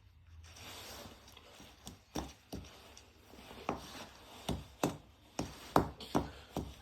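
Washing machine running with a soft rushing sound and a series of irregular sharp knocks, about one or two a second, starting about two seconds in.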